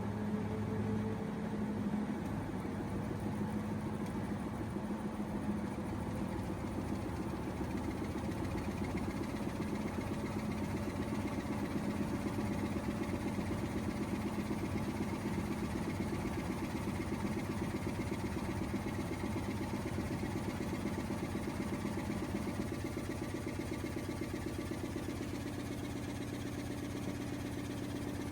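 LG washing machine running its drum motor, a steady mechanical hum with tones that slowly shift in pitch partway through.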